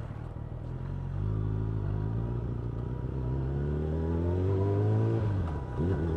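Suzuki Bandit's inline-four engine, through an Ixil aftermarket exhaust, pulling hard under acceleration. Its note rises steadily for about four seconds, then drops suddenly about five seconds in as the throttle is rolled off or a gear is changed.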